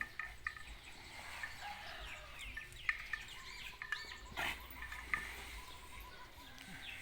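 Chickens clucking, with many short, high chirps scattered throughout.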